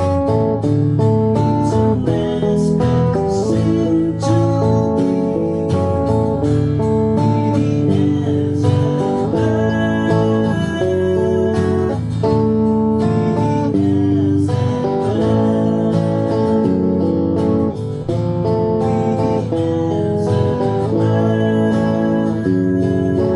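Music led by guitar, played continuously with changing chords and notes.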